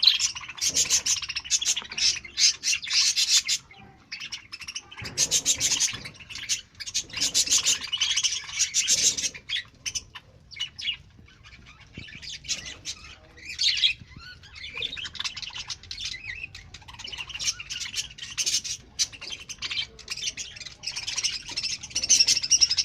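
A colony of budgerigars chattering and chirping, with rapid overlapping high calls that thin out briefly about ten seconds in.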